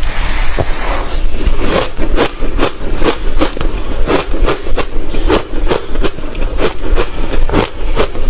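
Close-miked chewing of hard refrozen crushed ice: a steady run of crunches, about two to three a second.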